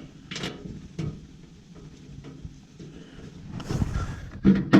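Scattered clicks, scrapes and knocks of hand tools and metal parts being handled while bolts are refitted on a generator enclosure, with a sharp click about a second in and a louder knock near the end.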